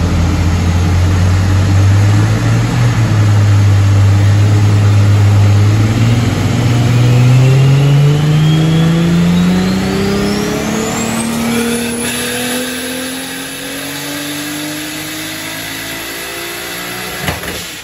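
Turbocharged Lexus IS300's inline-six on a chassis dyno making a full-throttle pull: the engine holds a steady note for about six seconds, then rises steadily in pitch for about ten seconds, with a turbo whistle climbing high over it. A sharp pop comes near the end as the run finishes.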